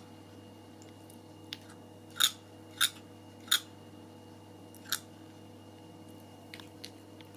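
Domestic cat clacking its teeth, its jaw working as if chewing with nothing in its mouth: a series of sharp clicks, the loudest four coming about two-thirds of a second apart, with a few faint ticks near the end.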